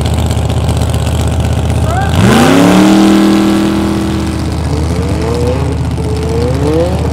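Drag-racing car engine idling, then revved sharply about two seconds in and held at high revs before easing off. Further rising and falling revs follow toward the end.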